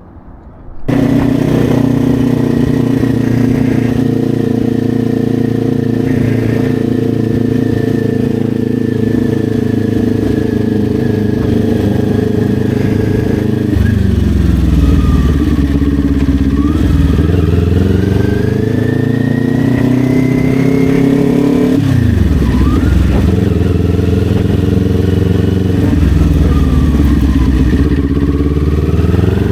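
Kawasaki Ninja 400 parallel-twin engine coming in suddenly about a second in and running at a steady note, then falling and climbing in pitch twice as the motorcycle pulls away through the gears.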